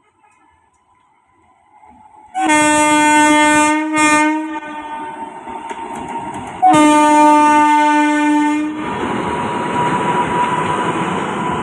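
Train horn sounding two long blasts, each about two seconds, a couple of seconds apart, the first with a brief break in it. After the second blast, the steady rumble and clatter of the train running on the rails.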